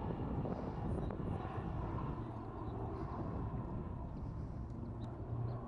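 Conair S-2FT Turbo Firecat's twin Pratt & Whitney Canada PT6A-67AF turboprops running in flight, a continuous low rumble with a steady low hum that grows stronger near the end.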